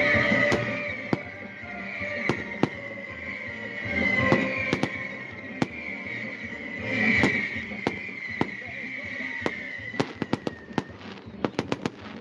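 Fireworks going off: sharp bangs and pops scattered throughout, ending in a rapid run of crackling cracks near the end.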